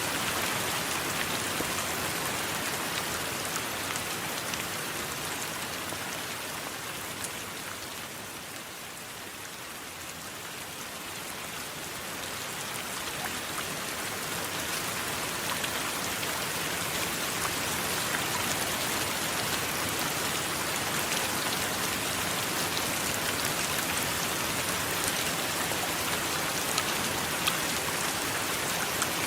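Steady rain falling, a dense hiss sprinkled with small ticks of individual drops. It eases a little about a third of the way in, then swells back to full strength.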